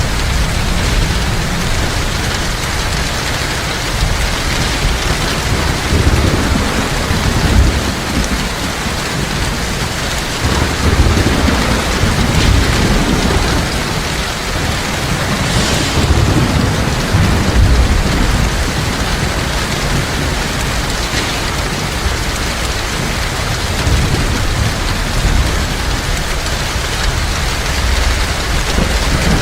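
Heavy rain falling steadily, with thunder rumbling low and repeatedly underneath.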